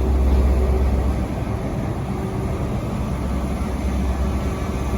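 Diesel engine of a Class 43 HST power car running, a low steady drone that eases a little about a second in. The engine is an MTU 16V4000.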